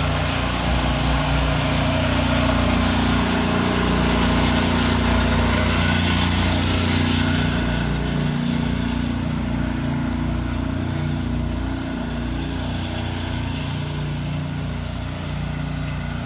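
Gas-engine pressure washer running steadily, with a broad hiss over it that fades about seven seconds in.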